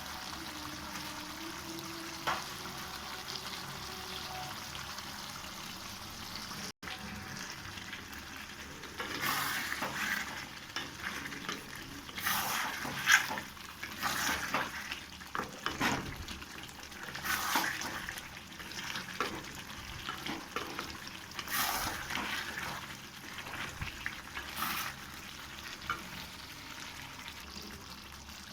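Chicken curry frying in a pan with a steady sizzle. From about nine seconds in, a spatula stirs it in irregular scraping strokes.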